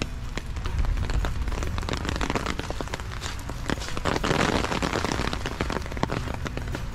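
Rain falling, heard as a dense patter of small drop clicks over a steady low rumble, with a thicker burst of hiss about four seconds in.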